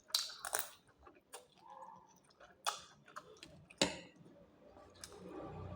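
Close-up eating sounds: chewing with a scattering of sharp wet mouth clicks and smacks, and a low hum starting near the end.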